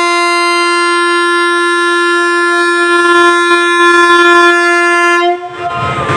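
Train locomotive horn sounding one long steady blast of about five seconds, cutting off abruptly; a departure signal as the express pulls out.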